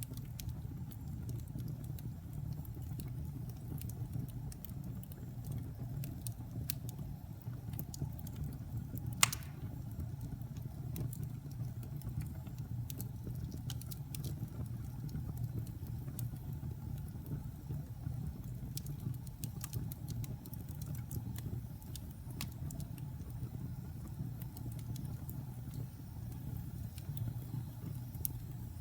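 Wood logs burning in a fireplace: a steady low rumble of the fire with scattered crackles, and one louder pop about nine seconds in.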